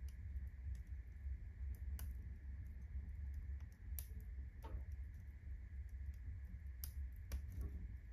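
Firewood burning in a fireplace as the fire is still catching, crackling with a few sharp, scattered pops over a low steady rumble.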